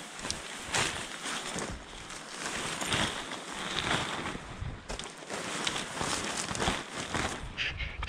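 Tent fabric rustling and swishing in irregular surges as a large tent is pulled and shifted across snowy ground.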